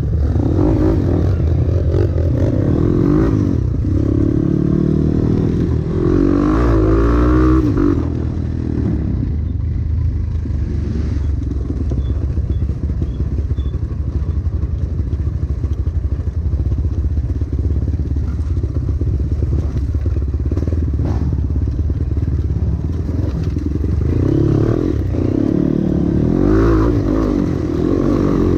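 Trail motorcycle engine running and being revved, its pitch rising and falling twice, with rattling knocks from the bike over rough ground.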